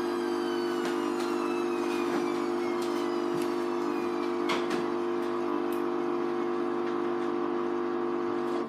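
Hoover Vision Tech washing machine spinning: a loud, steady motor hum, with a fainter whine above it that slowly falls in pitch. The sound cuts off abruptly right at the end.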